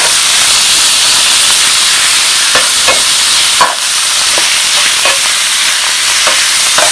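Ground pork and chilies sizzling loudly in hot oil in a wok, with a spatula scraping and tapping the pan now and then as the meat is pressed and broken apart.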